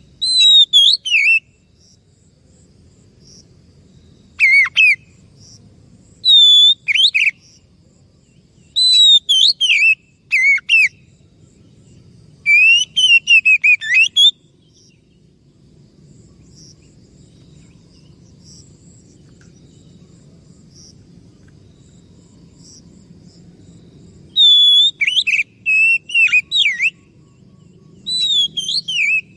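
Oriental magpie-robin (kacer) singing in short, loud phrases of whistled notes that glide up and down, with a pause of about ten seconds in the middle before the song resumes.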